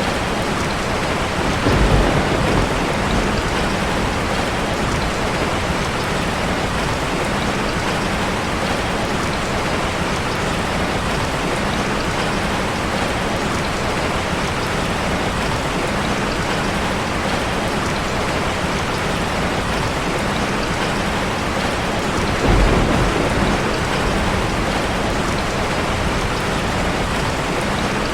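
Steady rushing of a waterfall layered with the crackle of a fireplace, in a constant even noise. Two brief low rumbles rise out of it, one about two seconds in and another near the twenty-two-second mark.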